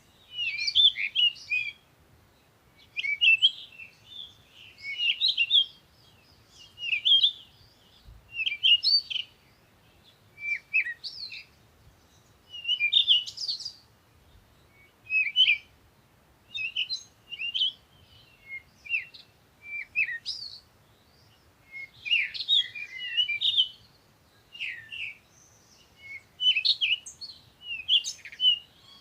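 Songbirds singing a dawn chorus: short, quick chirping phrases every second or two, separated by brief quiet gaps.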